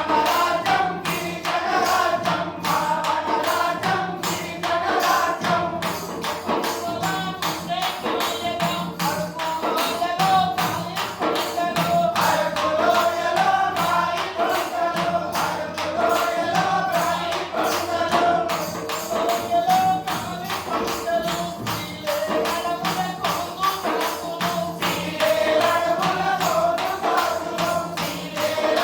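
A man singing a Telugu folk-style song to a steady tambourine beat.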